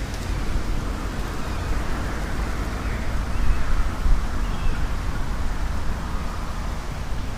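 Wind buffeting the microphone outdoors: a low, uneven rumble that swells and drops, over a steady hiss.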